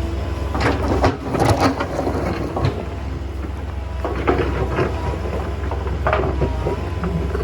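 Excavator's diesel engine running steadily, with two spells of stones clattering and knocking: about half a second in, and again around four seconds in.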